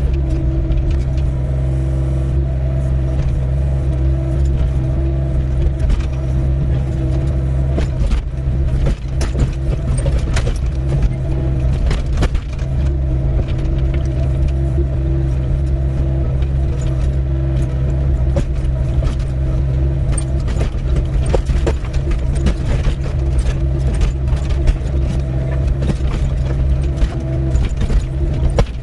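Doosan 55W wheeled excavator's diesel engine running steadily under load, with scattered knocks and scrapes as the bucket digs into stony ground.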